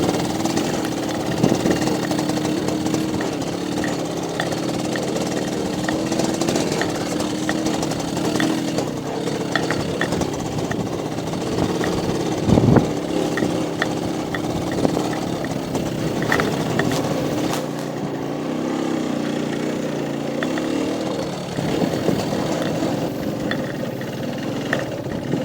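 Motorcycle engine running steadily while riding over a bumpy dirt track, its pitch wandering a little. There are scattered rattles and one loud knock about halfway through.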